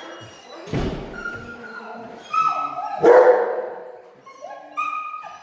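Dogs barking and yelping: short high cries that drop in pitch, and one loud bark about three seconds in. A dull thump comes just under a second in.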